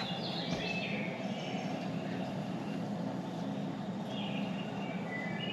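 Small birds chirping in short clusters of high notes: once near the start, again around four seconds in, and at the end, over a steady low hum.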